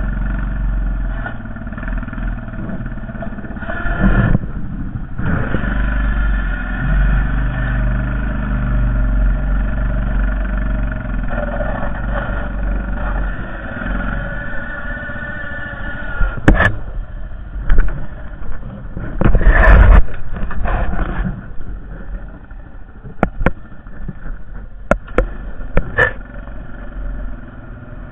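Honda Foreman 450 ES ATV's single-cylinder engine running, its pitch rising and falling with the throttle. In the second half, several sharp knocks and a short loud clatter come through over the engine.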